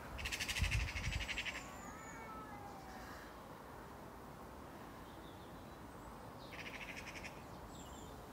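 Magpie giving its harsh, rattling chatter alarm call in two bursts, one at the start and one near the end. Faint chirps of other birds come between the bursts.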